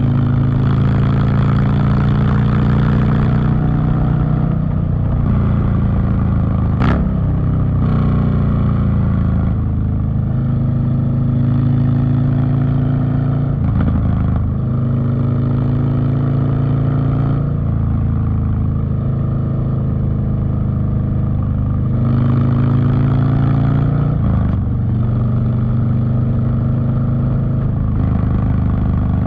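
Harley-Davidson Street Bob's V-twin running through a Two Brothers Racing (TBR) 2-into-1 exhaust under way, its pitch gliding and shifting several times as the rider changes speed and gears. A single sharp crack about seven seconds in.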